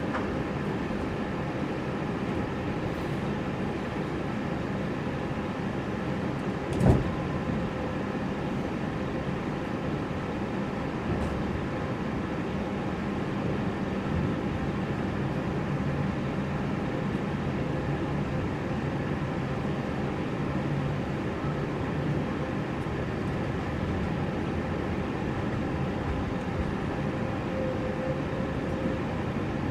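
Passenger train heard from inside the carriage as it pulls away from a station and runs: a steady rumble with a faint low hum, and a single knock about seven seconds in.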